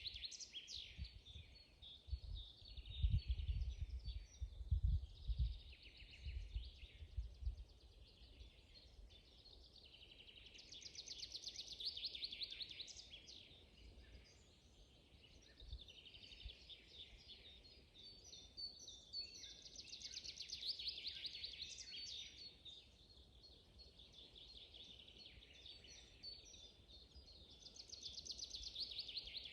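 Forest songbirds singing, with one trilling song phrase of a few seconds repeated about every nine seconds among scattered chirps. Low rumbling thumps during the first several seconds.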